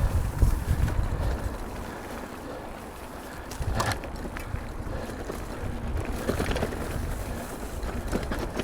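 Wind rumbling on the microphone of a camera riding on a mountain bike. The rumble is strongest in the first second or two, and there is a sharp knock about four seconds in.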